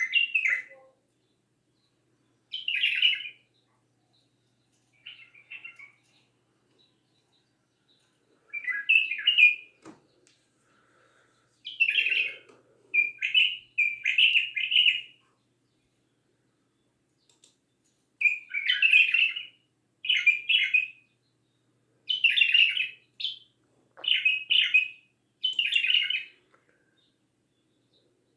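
Bulbul singing: short, loud warbled phrases of about a second each, often two or three in quick succession, with pauses of a few seconds between groups.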